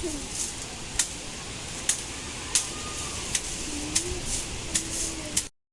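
Steady rain and wind, with sharp drips or taps landing roughly once a second. The sound cuts off suddenly near the end.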